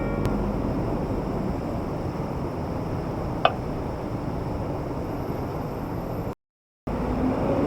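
Steady background noise of a market street, with one sharp click about three and a half seconds in; the sound drops out to silence for half a second near the end.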